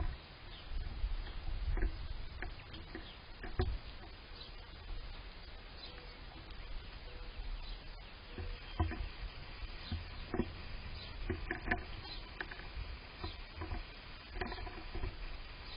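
Outdoor yard ambience: scattered short bird chirps and calls over a low wind rumble, with frequent small ticks and pattering sounds throughout.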